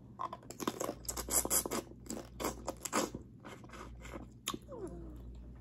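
Close-up mouth sounds of someone eating peeled seafood from a seafood boil: wet chewing and lip-smacking, a rapid string of short sharp clicks that thins out in the second half.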